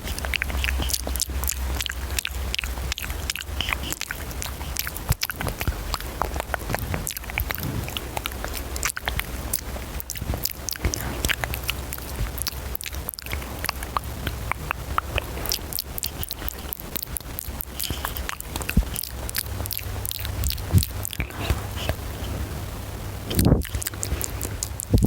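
ASMR mouth sounds: rapid, wet clicks and smacks of the lips and tongue close to the microphone, over a steady low hum, with a louder burst near the end.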